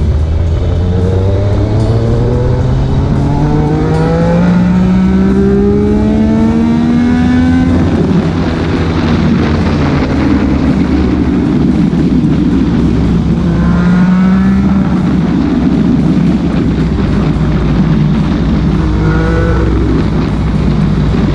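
Motorcycle engine accelerating in a long pull, its pitch rising steadily for about eight seconds, then a heavy rush of wind noise, with a second, shorter rise in pitch past the middle and a brief one near the end.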